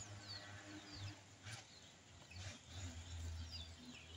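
Faint birds chirping, short scattered calls over a quiet, steady low background hum.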